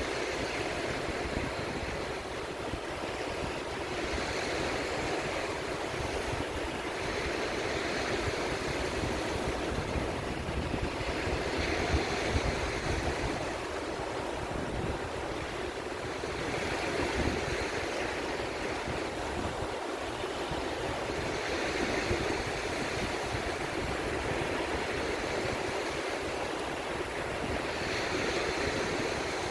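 Sea waves washing in, with surges every few seconds over a constant wash of surf, and a low rumble of wind on the microphone underneath.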